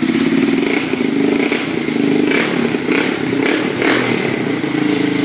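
Yamaha Warrior 350 ATV's single-cylinder four-stroke engine running steadily just after starting up, with faint regular ticks over the engine note. Its exhaust is coming loose, with a bolt missing.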